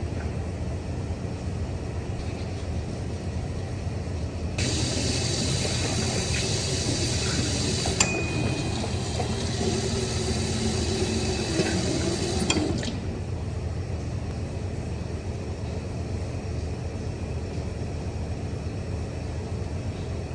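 Sink tap turned on and water running into the basin for about eight seconds, starting and stopping abruptly, with a small click partway through, over a steady low hum.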